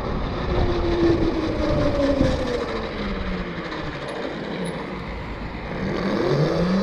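Electric e-bike motor whining under wind and tyre rumble: the whine's pitch sinks slowly as the bike slows, then climbs again near the end as it speeds back up.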